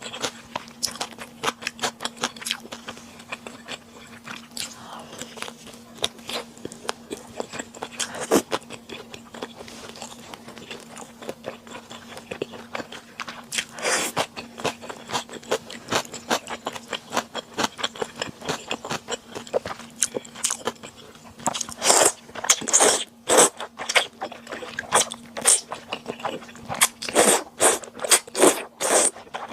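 Close-miked eating sounds: someone chewing and biting sundae and Chinese glass noodles, with many small wet clicks, and a run of louder biting crunches in the last several seconds.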